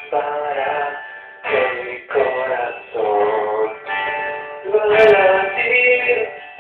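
A man singing a song with guitar accompaniment, in held notes and phrases broken by short pauses.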